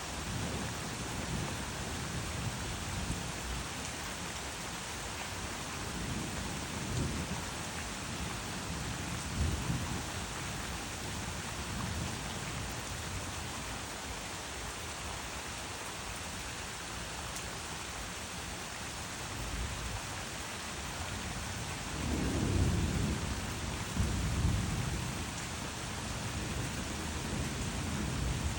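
Steady rain falling, with rolls of thunder rumbling low several times; the loudest roll comes near the end.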